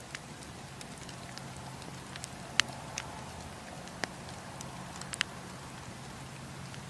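Wood campfire burning: a steady hiss under scattered sharp crackles and pops from the burning wood, the loudest a little over two and a half seconds in.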